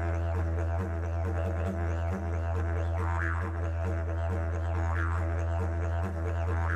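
Didgeridoo playing a continuous low drone, with its overtones sweeping up and down about three seconds in, about five seconds in and again near the end.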